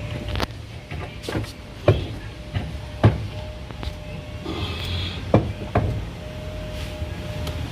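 About six sharp knocks and clicks of hand tools and fasteners being handled during underbody panel work on a car, over a steady low background rumble.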